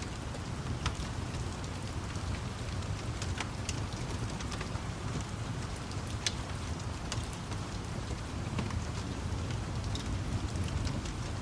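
Steady rain with a low rumble underneath and scattered sharp crackles and pops from a fire, a few each second.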